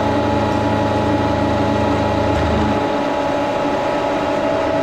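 1942 Brown & Sharpe No. 2 plain milling machine running with a steady mechanical hum and whine, its cutter taking a pass across aluminum. The deeper part of the hum drops away about three seconds in, while the higher whine carries on.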